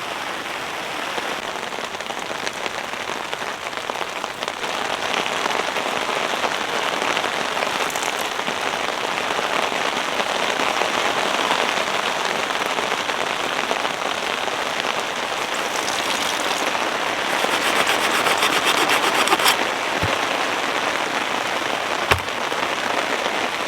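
Heavy rain falling steadily on the shelter's fabric overhead, growing a little heavier for a couple of seconds late on. Two brief sharp knocks near the end.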